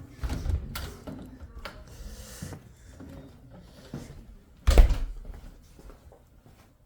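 Rustling, scattered knocks and handling noises as someone heads out of a camper, with one loud thump about five seconds in, like the camper door shutting.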